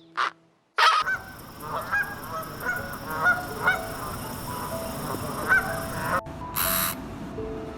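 Farm waterfowl calling: several short separate calls over a steady noisy background. About six seconds in the scene cuts to bursts of hissing noise.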